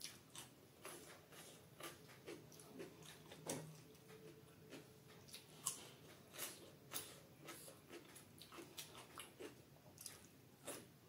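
Quiet, close-miked chewing and biting: irregular wet mouth clicks and smacks, a few a second, as cucumber sticks dipped in butter paneer gravy are eaten.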